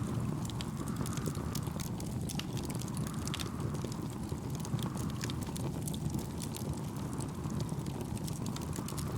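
Wood campfire crackling, with frequent sharp pops and snaps over a low steady rumble. A soft wash swells and fades every two to three seconds underneath.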